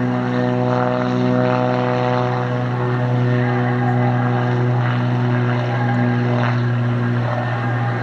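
Aircraft engine running steadily, a constant drone with no change in pitch.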